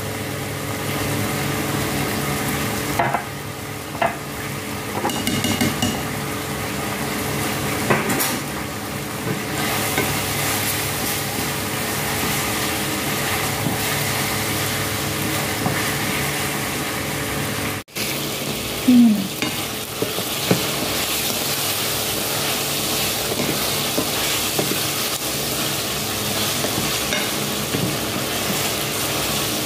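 Chicken pieces with ginger-garlic paste frying in a stainless steel pan, a steady sizzle as they are stirred with a spatula, with a few knocks of the spatula against the pan early on. The sound cuts out for an instant about two-thirds of the way through, then the sizzling goes on.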